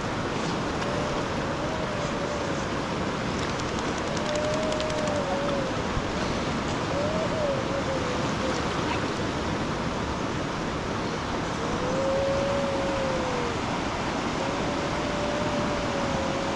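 Heavy rushing water of a flooded river, a steady dense roar. Over it, a thin wavering tone comes and goes about every two to three seconds, each lasting a second or two.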